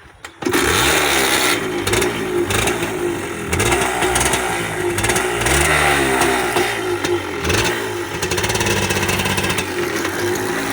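Suzuki TF125's 124cc single-cylinder two-stroke engine starting about half a second in, then revved up and down several times before running more steadily in the last few seconds.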